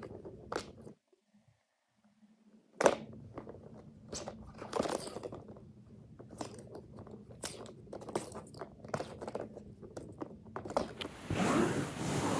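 Irregular crunching and chewing sounds, a string of quick uneven clicks and crunches that starts after a brief silence and grows denser near the end.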